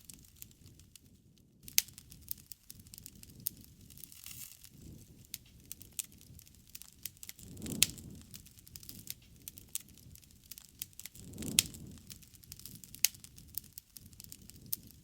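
Campfire crackling with irregular sharp pops of burning wood, a few of them loud, over a soft low rush of flame that swells briefly twice.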